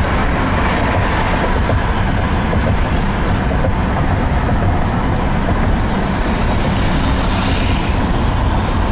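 Steady road and engine noise of a car driving on a freeway, heard from inside the cabin.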